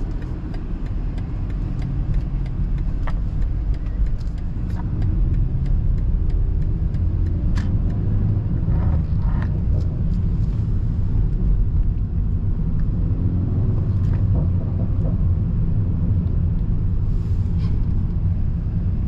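BMW 330i with a tuned 2.0-litre turbocharged four-cylinder, driven through town: a steady low engine and road rumble, with light changes in engine note partway through.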